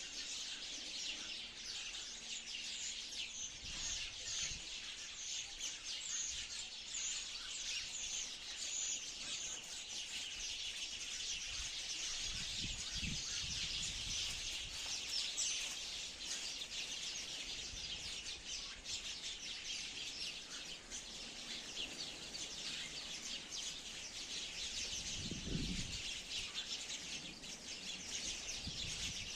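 A flock of sparrows chirping continuously, many short high chirps overlapping into a dense chatter.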